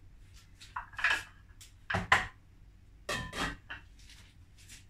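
Cooking pot and utensil clatter: short metal knocks and scrapes of cookware while maize meal for pap goes into the pot, about a dozen in all, loudest about two seconds in.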